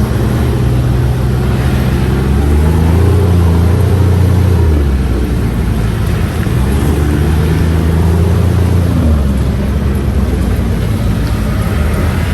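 UTV engine running under way, its note stepping up and down several times as the throttle changes.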